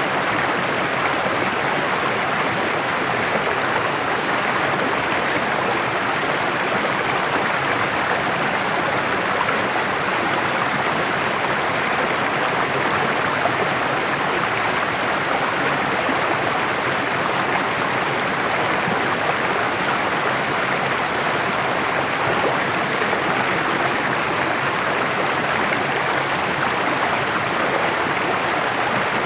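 Small rocky mountain stream babbling and splashing over stones, a steady rush of water that does not let up.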